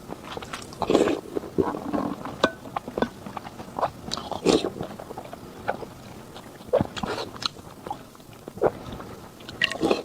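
Close-miked eating sounds: irregular bites and chewing, with short clicks and smacks a few times a second.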